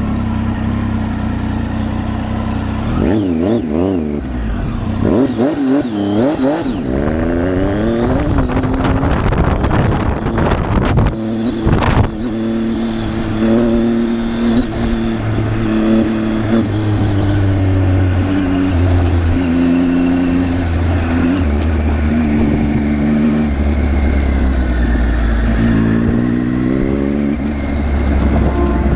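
Triumph Tiger 800's three-cylinder engine under way off-road, its revs rising and falling quickly over and over for several seconds, then running more steadily. A sharp knock about twelve seconds in.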